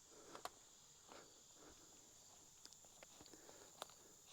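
Near silence: faint steady high-pitched insect chirring, with a few soft footsteps and small clicks, two slightly louder about half a second in and near the end.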